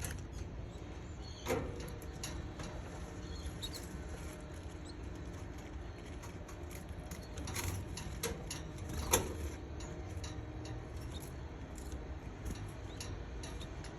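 Baby canaries stirring in their nest: scattered light scratching and rustling, with three sharper taps, over a low steady background hum.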